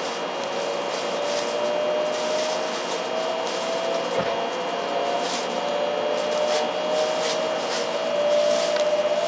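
700 series Hikari Rail Star Shinkansen train running, a motor whine rising slowly and steadily in pitch as it gathers speed over steady running noise.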